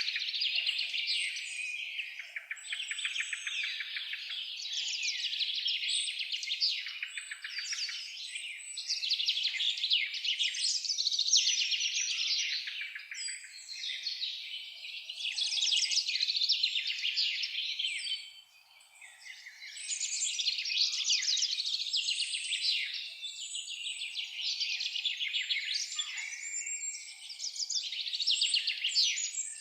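Dense chorus of many songbirds singing at once, overlapping rapid trills and chirps, with a brief lull a little past the middle.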